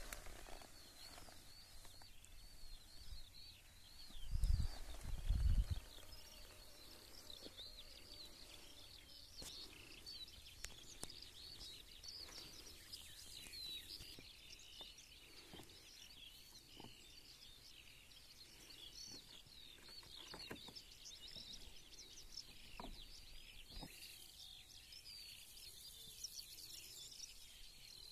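Small birds chirping and singing in a dense, continuous chorus of quick high notes. A low rumbling in two short bursts about four to six seconds in is the loudest thing.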